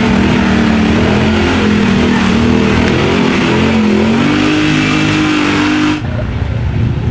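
Lifted off-road Jeep's engine revving hard as it churns through a deep mud hole with its wheels spinning. The pitch climbs around four seconds in, and the revving eases off about six seconds in.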